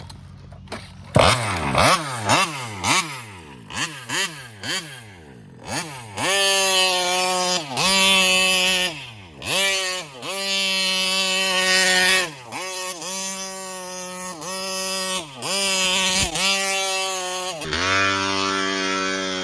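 Taylor 35cc reed-valve two-stroke engine in a 1/5-scale RC buggy revving. It starts with quick, quieter blips, then runs up in pitch again and again and falls away each time without coming on the pipe. The owner takes this for the carburetor starving the engine of fuel at high RPM, a lean condition.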